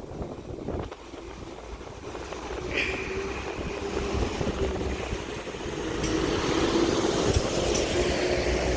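A two-unit Transport for Wales Class 197 diesel multiple unit pulling out and running past, growing louder as it goes, with a steady engine drone and a brief high squeal about three seconds in.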